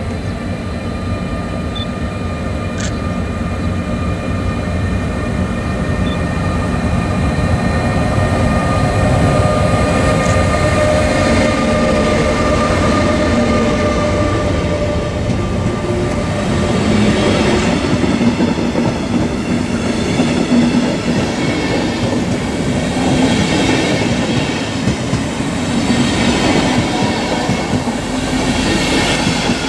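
MRCE ES64U2 (Siemens Taurus) electric locomotive and its train passing, with a continuous rolling rumble and wheels clattering over the rail joints. Steady whining tones sound through the first half, and a denser metallic ringing and squeal comes from the wheels in the second half.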